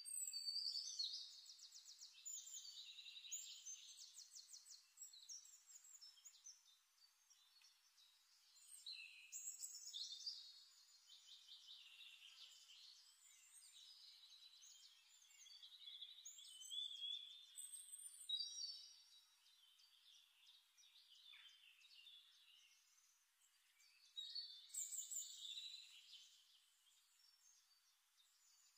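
Faint birdsong: several bouts of quick, high-pitched chirping trills.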